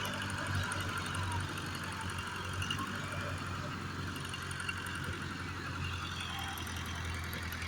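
Road traffic noise: a steady engine hum from vehicles held up in a jam.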